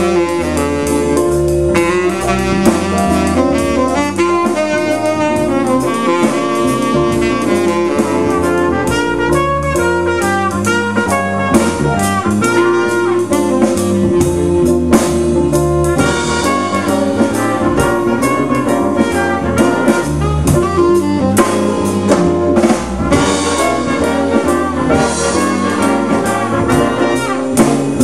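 Big band playing jazz: a saxophone section, trumpets and trombones over drum kit, bass guitar, guitar and keyboards, with a steady drum beat throughout.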